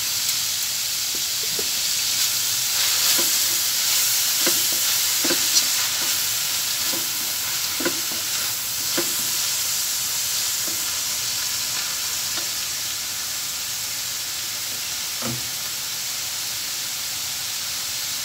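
Ground meat, tomato and onion sautéing in a wok: a steady sizzle, with a plastic slotted spatula stirring and knocking against the pan now and then, more often in the first half.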